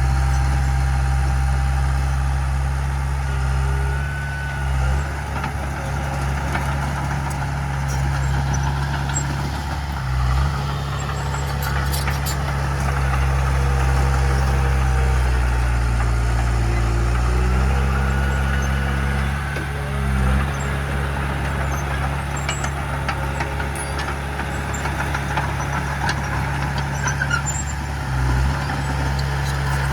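Heavy diesel engine of earthmoving equipment running steadily, its pitch dipping and then rising partway through as the load changes.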